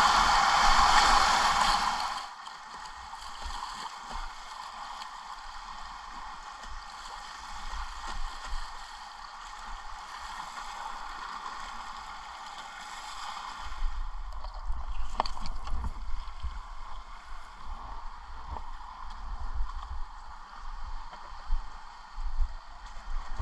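Whitewater river water rushing around a kayak. It is loud for about the first two seconds, then drops to a steadier, quieter hiss of moving water. From a little past halfway, irregular low bumps and splashes come in.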